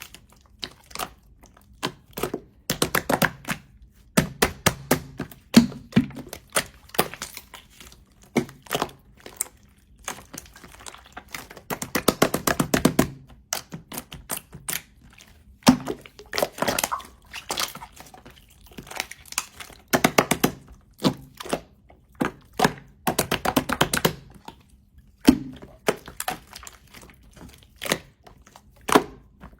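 Slime being squeezed and pressed by hand, making irregular clusters of sharp clicks and pops with short pauses between.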